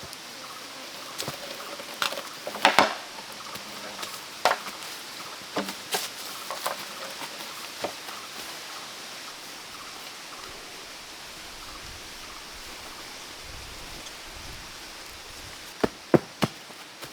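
Irregular sharp knocks and cracks of wood or bamboo being handled and struck, over a steady high hiss from the forest. After a quieter stretch, three quick chopping strikes come near the end.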